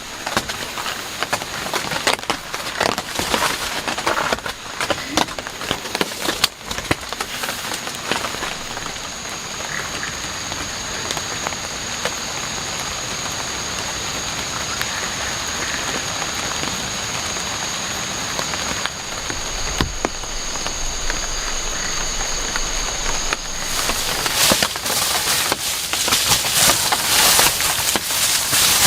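Heavy rain falling steadily, with many sharp drop impacts in the first several seconds and again near the end. A thin high steady tone runs through the middle stretch and stops about three-quarters of the way in.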